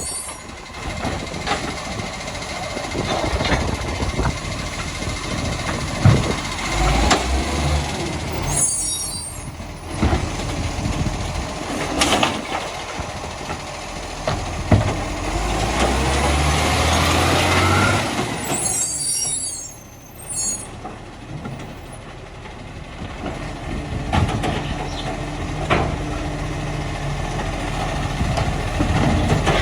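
Side-loader garbage truck at work: its engine running under several sharp bangs, a rising whine around the middle, and two short air brake hisses.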